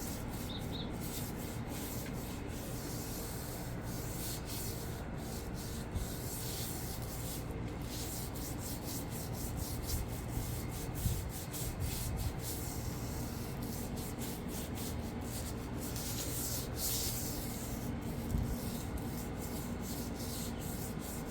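Steady scrubbing: quick, repeated rubbing strokes on a grimy surface to clean off bird mess.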